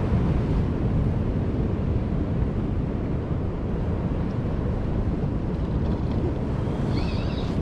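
Steady wind rumbling on the microphone over the wash of sea waves, with a brief high chirp about seven seconds in.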